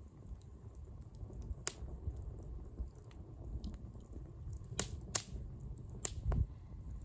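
Wood bonfire burning, with sharp crackling pops scattered over a low rumble. The loudest pops come close together about five to six seconds in.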